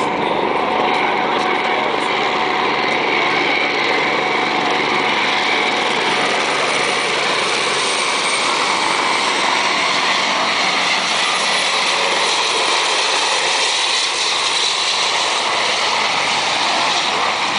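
Helicopter turbine and rotor noise, loud and steady.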